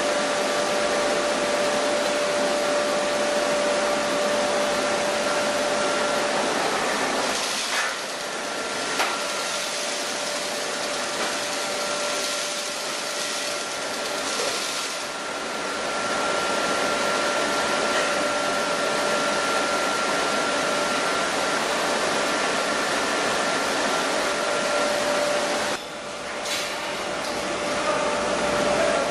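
Chili powder milling machinery running: a loud, steady mechanical rush with a high whine that fades out and back in, and a higher whine in the middle.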